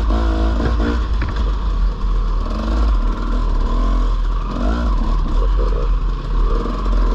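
Dirt bike engine revving up and down repeatedly while riding a trail, with a heavy rumble of wind on the microphone.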